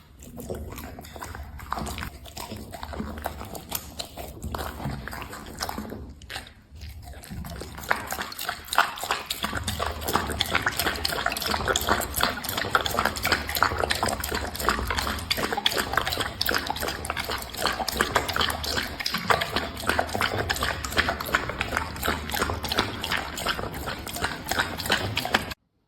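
A dog eating: rapid wet chewing and mouth sounds, sparser at first with a brief pause about six seconds in, then dense and steady from about eight seconds on.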